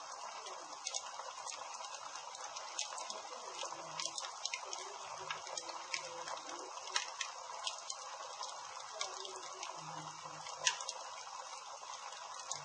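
Campfire burning, with a steady hiss and frequent irregular crackles and pops from the wood.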